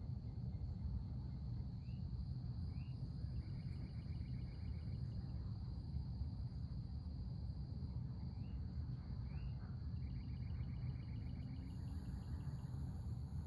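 Backyard outdoor ambience: a steady high insect drone throughout, and a songbird singing the same phrase twice, two rising notes and then a quick trill, over a constant low rumble.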